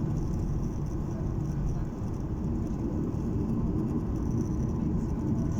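Airliner cabin noise: the steady low rumble of the jet engines and rushing air heard from inside the passenger cabin.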